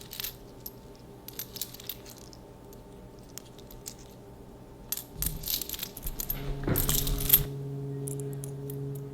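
Scattered light metallic clinks and clicks, busiest about five to seven and a half seconds in, with a low steady hum coming in after that.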